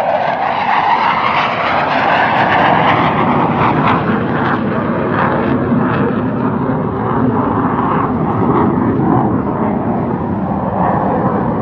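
Jet engines of military jets flying a high-speed pass in tight formation. The noise is a loud, steady rush that eases off slightly near the end.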